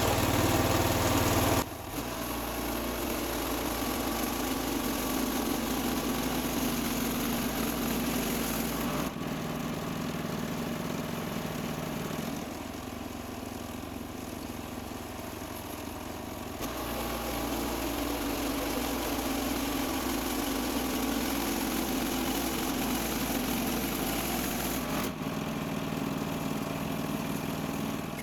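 Small gasoline engine of a Woodland Mills HM126 portable bandsaw mill running steadily. Its level and tone shift abruptly several times.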